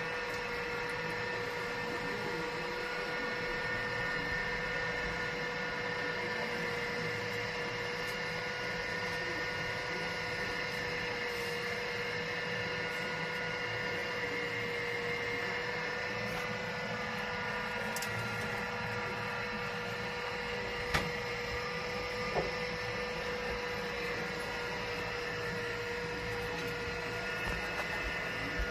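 Steady mechanical hum with a constant mid-pitched tone and higher overtones, like a running fan or appliance motor, with two sharp clicks about 21 and 22 seconds in.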